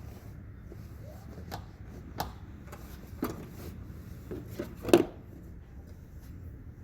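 A run of sharp clicks and knocks, the loudest about five seconds in, from hands working on a car's interior while removing the rear seat to reach the hybrid battery.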